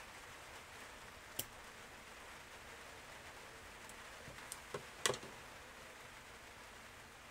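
Small scissors snipping thin cable-tie plastic: four short, sharp clicks, one early and three close together about five seconds in, the last the loudest, over a faint hiss.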